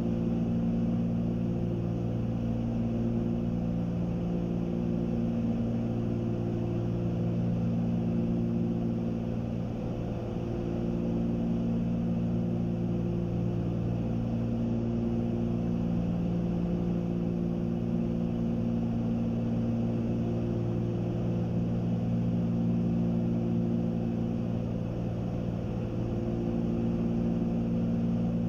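The Cessna 310Q's two piston engines and propellers droning steadily in cruise, leaned out. The drone swells and fades slowly every few seconds, the beat of two engines running at slightly different speeds.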